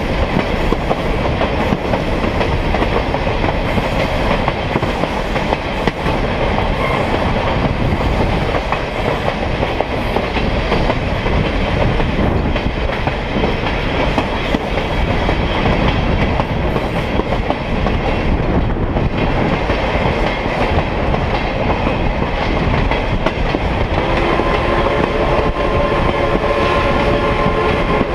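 Train wheels rolling over the rails, heard from aboard a car on the train: a steady rumble with clickety-clack. About four seconds before the end, the train's horn starts sounding, a steady chord that keeps on.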